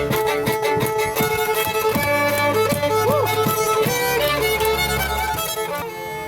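Fiddle music with a steady beat, thinning out just before the end.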